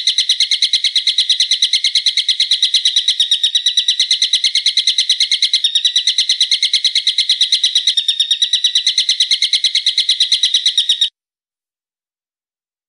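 Songbird's fast trill of sharp, evenly repeated notes, about eight a second, held for about eleven seconds and cutting off abruptly.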